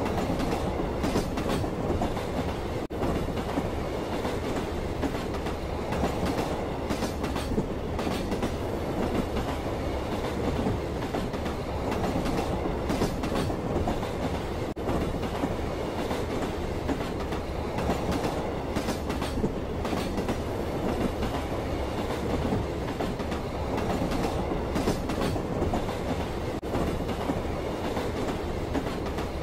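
Moving train heard from inside the carriage: a steady rumble of wheels running on the rails, with a clickety-clack now and then as the wheels cross rail joints.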